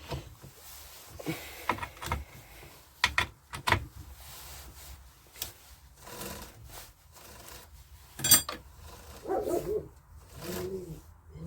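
Scattered metal clicks, knocks and rubbing from handling a Stihl MS 170 chainsaw while its chain is tightened for sharpening.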